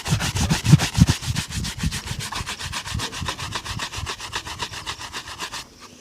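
Shoe being shined by hand with fast back-and-forth rubbing strokes, about eight or nine a second, which stop abruptly near the end.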